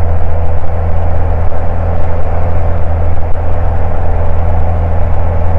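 Single-engine Cessna's piston engine and propeller droning steadily in flight, a constant low hum with a rushing hiss over it.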